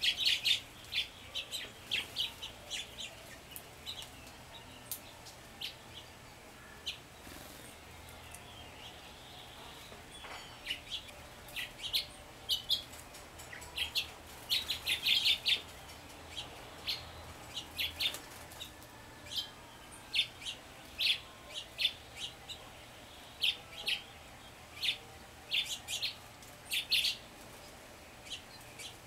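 Small wild songbirds chirping: many short, sharp, high-pitched calls at irregular intervals, often in quick clusters, over a faint steady background hiss.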